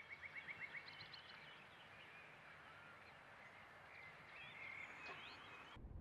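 Faint outdoor birdsong over a soft background hiss: a quick run of about eight chirps at the start, then scattered whistled calls and chirps. It cuts off suddenly just before the end, giving way to a low indoor rumble.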